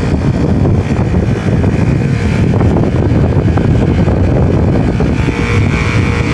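A 15-ton rooftop package air-conditioning unit running with both compressor stages on: a loud, steady mechanical noise with a thin high whine over it, and a few more steady tones joining about five and a half seconds in.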